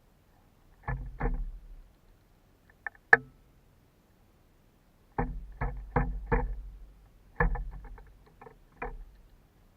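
Hollow taps and knocks in short clusters, each a few strokes about a third of a second apart, with one sharp click about three seconds in: a bird pecking at a suet cake in its wire feeder.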